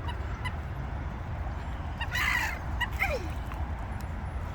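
Gulls calling: a harsh squawk about two seconds in, then a short falling cry about a second later, over a steady low rumble.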